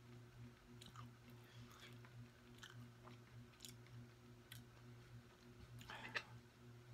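Quiet close-mouthed chewing with faint mouth clicks, over a low steady hum. About six seconds in, a brief clatter as a fork digs into food on a metal baking tray.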